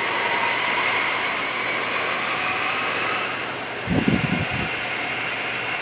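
Victor toolroom lathe running steadily in its low speed range, a steady mechanical hum with faint whining tones. A short cluster of low thumps about four seconds in.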